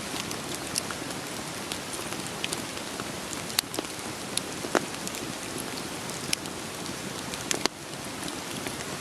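Steady rain hiss with scattered sharp pops and crackles of burning firewood, a few louder snaps among them.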